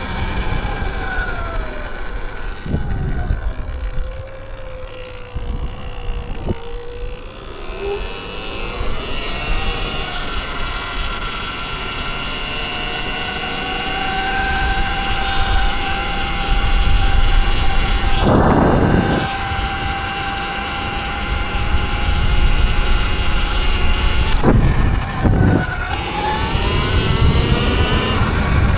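Electric dirt bike motor whine, its pitch falling as the bike slows, then rising and holding steady as it picks up speed again, over a low rumble. Short bursts of rushing noise come about two-thirds of the way in and again near the end.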